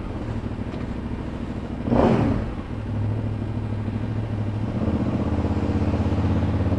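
KTM 990 V-twin motorcycle engine running at low town speed, with a brief louder rush of noise about two seconds in. The engine note steadies and grows a little stronger over the last couple of seconds.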